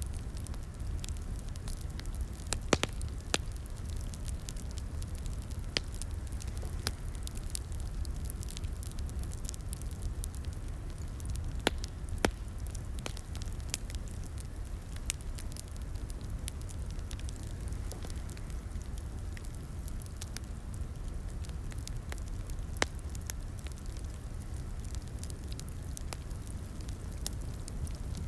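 Wood fire burning in a fireplace, irregular sharp crackles and pops over a steady low rumble of the flames.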